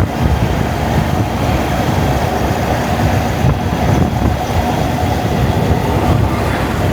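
Wind buffeting the camera microphone over the steady running of a Honda Monkey's single-cylinder motorcycle engine while riding along the road, a continuous rushing rumble with a faint steady engine tone.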